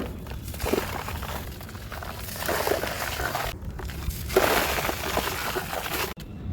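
Dry, brittle material being crushed and crumbled by hand, giving a crisp crunching and crackling in several stretches, with a brief gap about three and a half seconds in and a sudden stop near the end.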